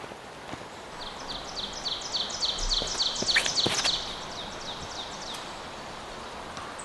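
A bird calling in woodland: a run of short, high notes repeated about five times a second for roughly four seconds, with a few faint knocks alongside.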